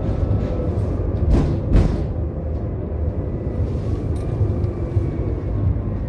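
Tram running along the track: a steady low rumble, with two sharp knocks from the wheels over rail joints about a second and a half in and faint whining tones that slowly glide.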